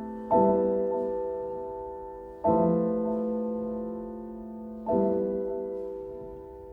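Slow, gentle solo piano music: three sustained chords struck about two seconds apart, each left to ring and fade away.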